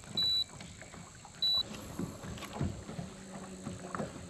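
Two short, high electronic beeps: one near the start and one about a second and a half in. Beneath them is a faint background of water and boat noise with a few soft knocks.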